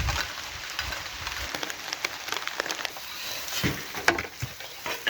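Food sizzling over an open fire: a steady hiss with scattered crackles and pops.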